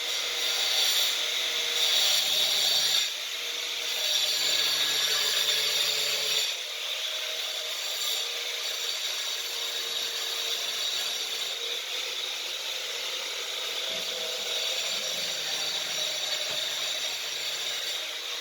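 A power tool running steadily, cutting or grinding, with two louder stretches in the first six seconds and then a steadier, somewhat quieter run.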